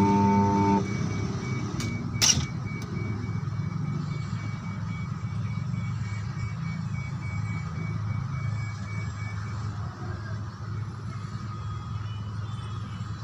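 Burnt-out washing machine motor humming steadily under power, with a sharp click about two seconds in. The burnt motor is giving off smoke.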